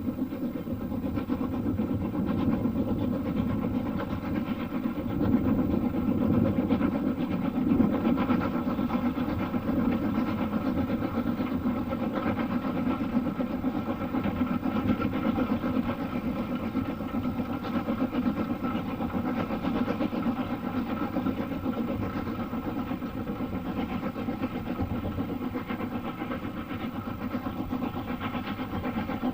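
Heritage railway train running with a steady mechanical engine drone, unchanging through the whole stretch.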